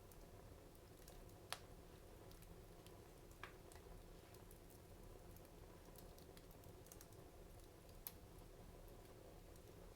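Wood fire crackling faintly in a fireplace: scattered soft ticks, with three sharper pops at about one and a half, three and a half and eight seconds in.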